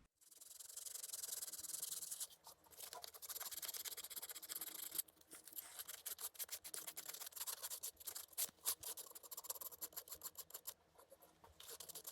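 Sandpaper rubbed by hand along the edges of a small cut piece of wood, faint. Two longer strokes are followed, from about five seconds in, by quick short back-and-forth strokes.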